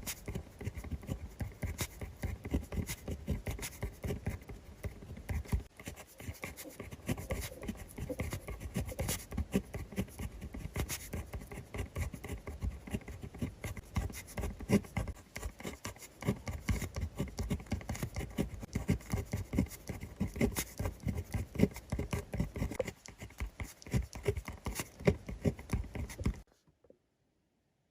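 Pen writing on notebook paper: quick scratching strokes with brief pauses, cutting off suddenly near the end.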